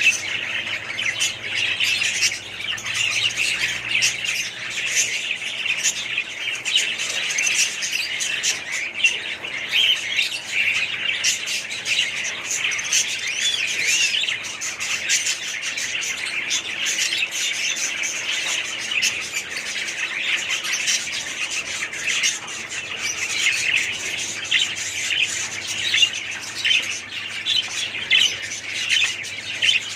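A flock of small pet parrots chattering, with many overlapping chirps and squawks all at once and no pause.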